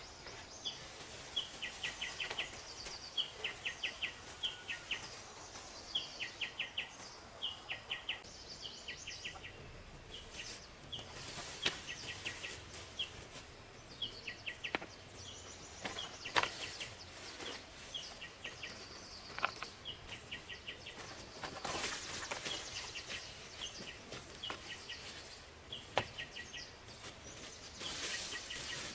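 A bird calling over and over in short rapid chirp trills, about one trill a second. A few sharp knocks and brief rustles come in now and then.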